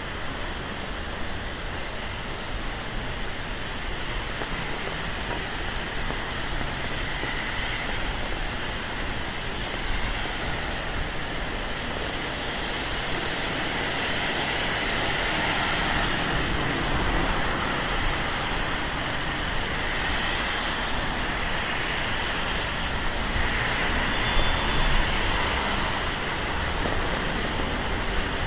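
Steady rain and city traffic on a wet street: an even hiss of rain and tyres on wet asphalt, growing a little louder in the second half as vehicles pass.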